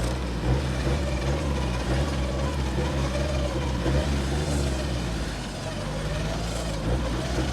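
Off-road 4x4 engine running steadily, with a whine that wavers slowly up and down in pitch.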